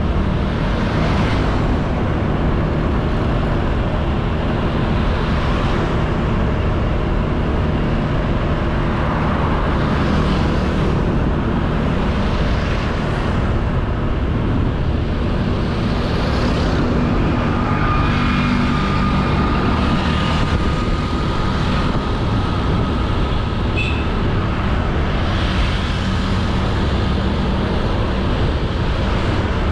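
Honda Beat 110cc scooter engine running steadily while riding, under a loud rush of wind on the camera, with whooshes every few seconds from passing traffic. A thin steady whine holds for several seconds past the middle.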